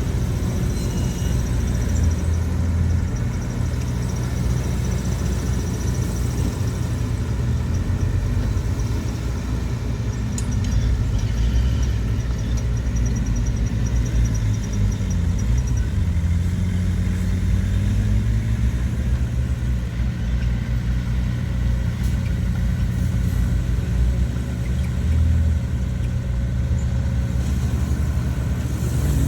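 Diesel engine of heavy earthmoving machinery running steadily, with its pitch dipping and then rising again about halfway through.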